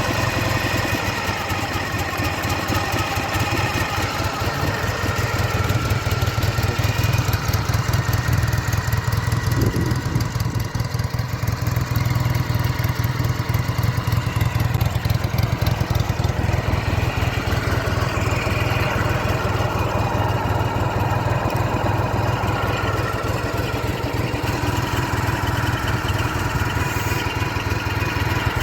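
1993 Ural motorcycle's air-cooled flat-twin engine idling steadily, freshly started from cold on the first kick.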